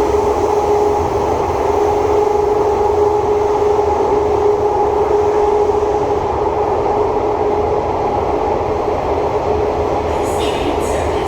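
Metro train running between stations, heard from inside the car: a steady motor whine over the rumble of wheels on track.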